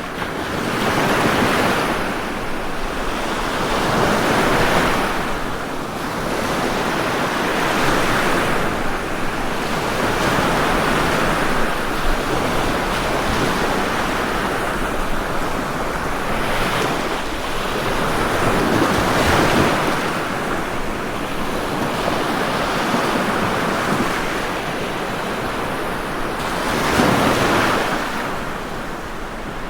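Ocean waves breaking and washing on a shore, a steady surf that swells and ebbs every few seconds.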